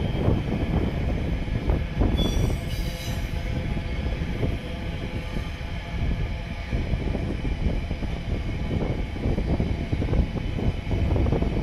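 Container freight train rolling past: the steady rumble of loaded container wagons on the track, with a brief high wheel squeal about two seconds in.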